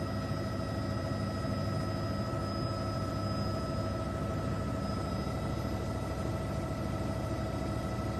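Steady mechanical drone: a low rumble under a constant high whine, unchanging throughout.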